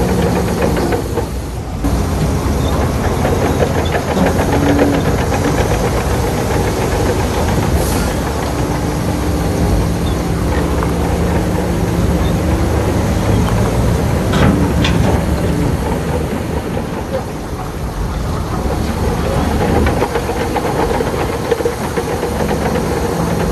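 Shantui bulldozer's diesel engine running steadily under work, its note shifting slightly now and then, with steady rattle and a few sharp clanks.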